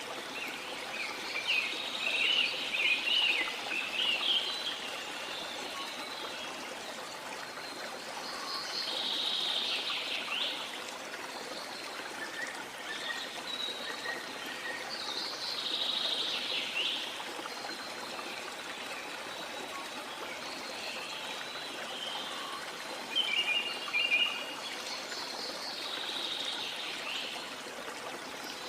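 Steady rush of a waterfall with tropical forest birds calling over it: a run of quick chirps near the start, then single calls every few seconds and two sharp, loud calls past the middle.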